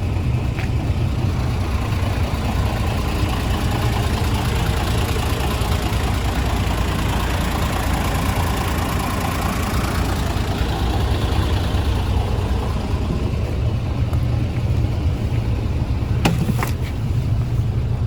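Mercedes-Benz O307 city bus under way, heard from inside the cabin: a steady low diesel rumble with road noise that swells in the middle and then eases. There are a couple of sharp knocks near the end.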